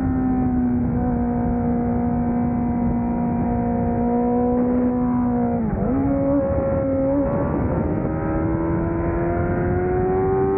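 600cc superbike engine running hard at racing revs, its pitch easing slowly down, dipping sharply about halfway through, then climbing steadily as it accelerates.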